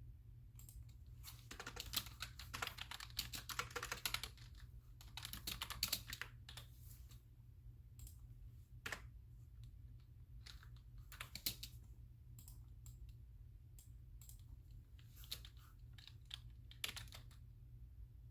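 Typing on a computer keyboard in bursts: two dense runs of keystrokes in the first six seconds, then scattered single keystrokes and short runs with pauses between.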